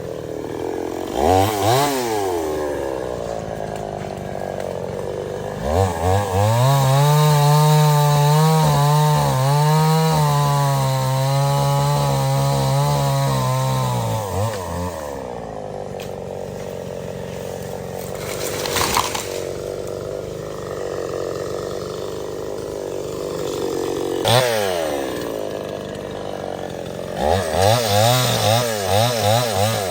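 Stihl 070 two-stroke chainsaw revved up, held at high revs under load for about eight seconds as it cuts teak wood, then dropped back to idle. Near the end it gives several quick throttle blips.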